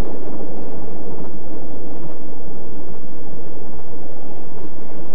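Passenger train under way: the steady rumble of the carriage running on the rails.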